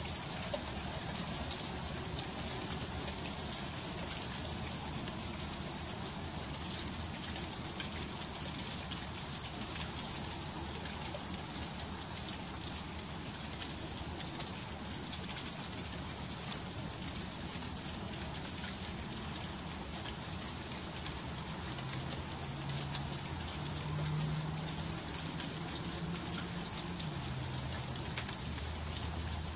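Freezing rain falling steadily, a dense patter of fine ticks as the drops strike icy surfaces.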